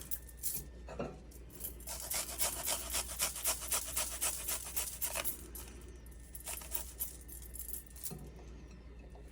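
Garlic cloves being grated on a hand grater: quick rasping strokes, about four or five a second, in a few runs separated by short pauses.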